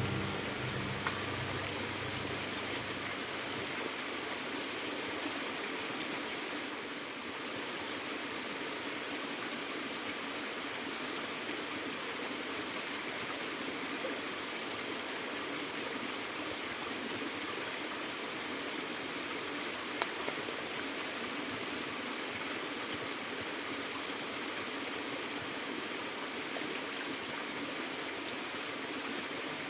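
Fast-flowing stream rushing steadily, swollen after a day of heavy rain.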